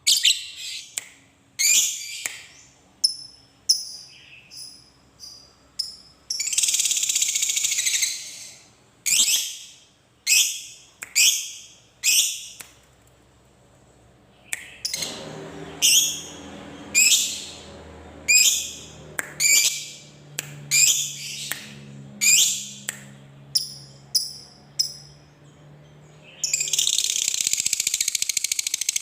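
Lovebird calling with a string of short, sharp, high-pitched chirps and squeaks, broken by long continuous trilling chatter ('ngekek'). One chatter lasts about two seconds, starting about six seconds in. Another starts near the end and carries on.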